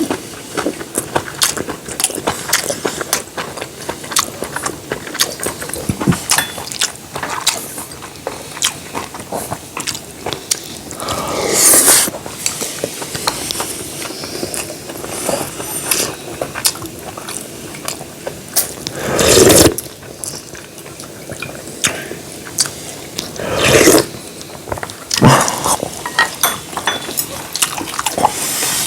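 Close-up eating sounds: chewing and wet mouth sounds with scattered sharp clicks, and several louder slurps of stew broth, about 12, 19 and 24 seconds in.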